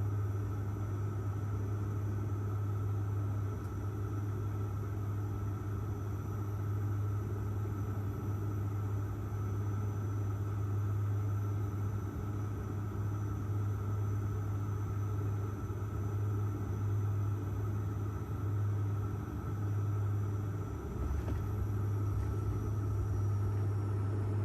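Steady drone of an airliner's engines heard inside the passenger cabin: a strong low hum with faint steady whines above it.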